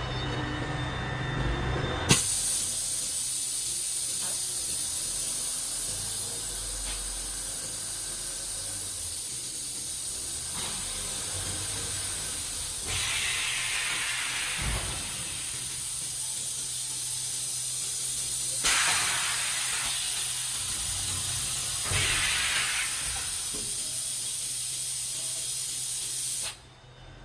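Hot plate plastic welding machine running during a weld cycle: a steady hiss that starts with a click about two seconds in. A few louder short rushes of hiss come along the way, and it cuts off suddenly near the end.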